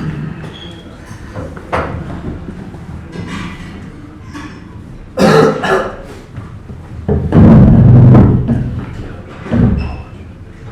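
Breakfast-room clatter over a low background murmur: several sudden knocks and thuds of crockery and furniture. A sharp clatter comes about five seconds in, and the loudest is a longer, low scraping thud a couple of seconds later, with one more knock near the end.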